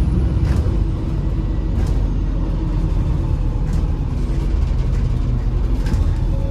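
MAZ-203 city bus running, a steady low engine and road rumble heard from inside the passenger cabin, with a few light clicks.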